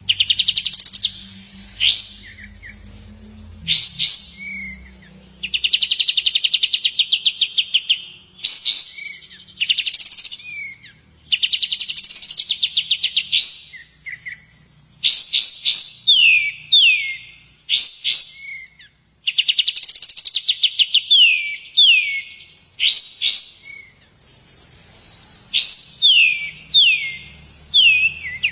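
Small songbird singing: fast, high, rattling trills broken by sharp upward-sweeping notes, with runs of falling slurred whistles in the second half.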